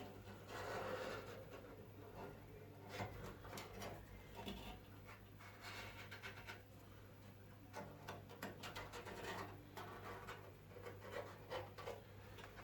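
Marker pen drawn along a steel car body panel to mark a cut line: faint, irregular scratching strokes with small clicks and taps, over a steady low hum.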